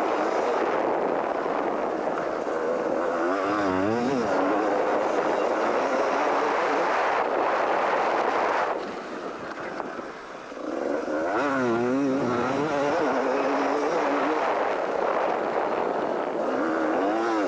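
A 250cc two-stroke motocross bike's engine revving hard and falling back again and again as the throttle is worked through a lap. The engine note drops away briefly about nine seconds in, then climbs again.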